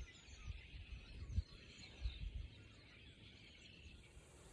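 Wind buffeting the microphone in irregular low gusts, with faint bird chirps in the background.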